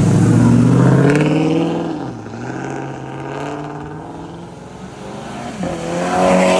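Car engine revving hard as it accelerates past, its pitch climbing, dropping sharply at a gear change about two seconds in, then climbing again near the end.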